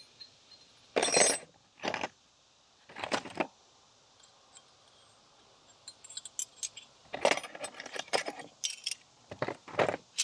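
Metal hand tools clinking and rattling as a tool set is rummaged through for a smaller size: a few separate clatters in the first few seconds, then a longer run of clinks in the second half.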